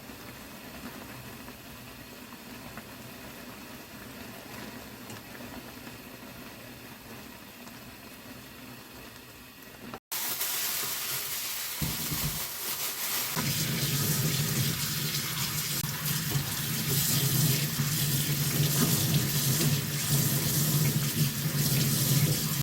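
Water rushing in a cooking pot, steady at first. After a cut it is louder, with a steady low hum that grows louder toward the end.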